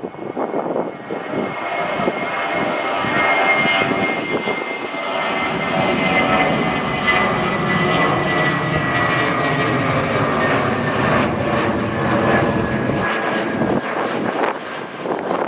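Airliner engines running loudly as the aircraft passes, a dense roar carrying a high whine that falls slowly in pitch.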